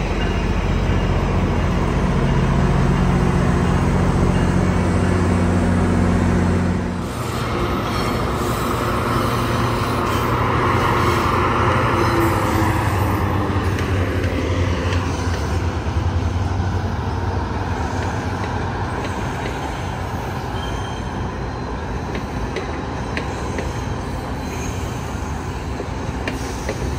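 A diesel passenger train: a locomotive's engine running steadily, then about seven seconds in the sound changes abruptly to the rush of wheels and cars rolling by, which eases to a steadier, quieter rumble.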